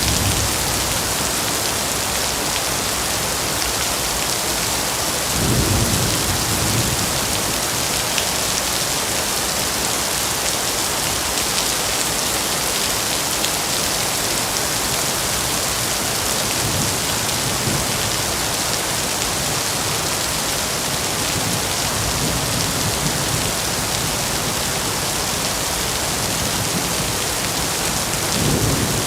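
Steady heavy rain with low rolls of thunder rumbling up several times: about six seconds in, twice in the middle and again near the end.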